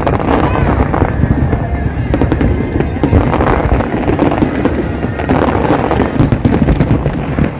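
Fireworks going off in rapid, continuous succession: many sharp bangs and crackles overlapping on a deep rumble.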